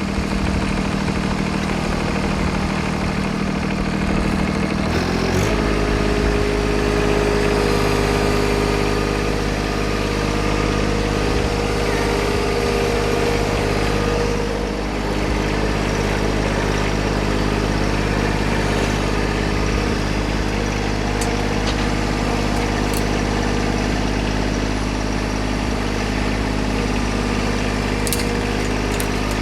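Tractor engine idling, throttled up about five seconds in and then running steadily at the higher speed.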